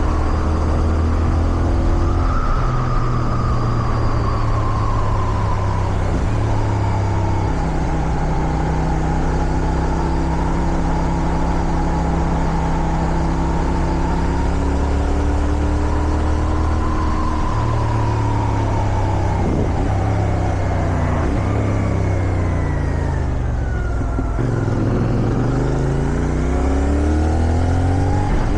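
CFMoto 450SR parallel-twin motorcycle engine running under way at fairly steady revs, which shift a couple of times. Late on the revs fall away as the bike slows, then climb again as it accelerates near the end. Wind noise rushes over the microphone throughout.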